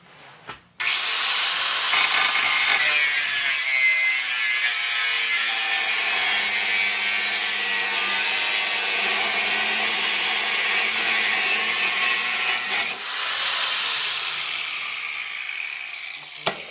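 Electric power tool cutting or grinding steel plate. It starts abruptly about a second in, runs steadily with a harsh hiss for about twelve seconds, then fades with a falling whine as it winds down.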